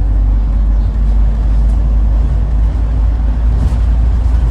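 Scania N94UD Omnidekka double-decker bus under way, heard from on board: a steady, low engine drone with road and cabin noise.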